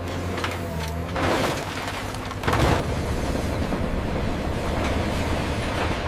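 Heavy industrial machinery running with a low hum, broken by rumbling crashes; the loudest crash comes about two and a half seconds in, and rough noise continues after it.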